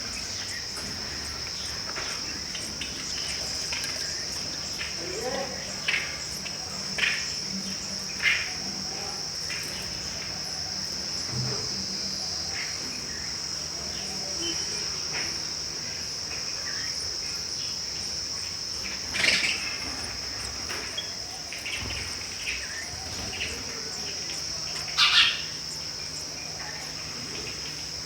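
A steady, high-pitched insect trill runs throughout. Over it come about five short sparrow chirps, the two loudest in the second half.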